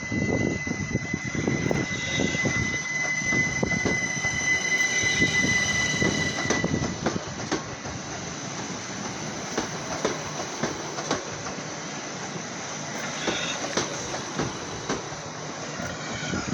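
Class 387 electric multiple unit pulling out of the station. Its wheels click over the rail joints throughout, with some squeal, and a high steady tone stops about seven seconds in.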